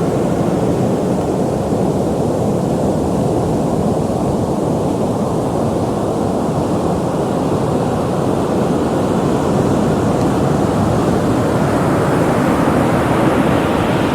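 Ocean surf: a steady deep rumble of waves breaking and washing, swelling a little and growing brighter near the end as a wave comes in.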